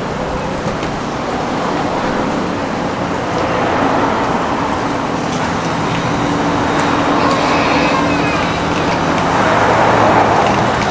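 Road traffic: motor vehicles running and passing close by, with a steady low engine hum under the roadway noise. It grows a little louder near the end.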